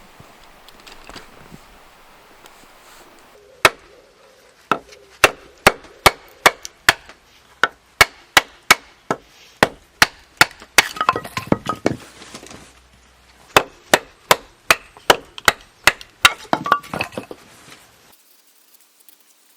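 Firewood being chopped or split into kindling: a quick run of sharp wooden knocks, about three a second, with a brief splintering stretch about halfway through.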